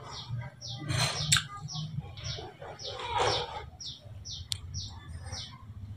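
A small bird chirping over and over, short chirps falling in pitch at about two a second, over a steady low hum, with a few brief rustles.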